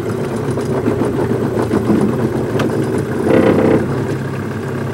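An engine running steadily at low speed, like a vehicle idling or creeping along, with a brief louder sound about three and a half seconds in.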